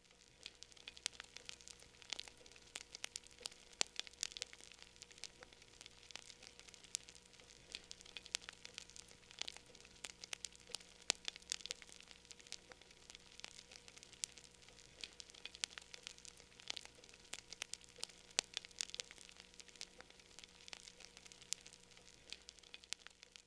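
Wood fire crackling in a fireplace: quiet, irregular sharp snaps and pops, several a second, with no steady rhythm.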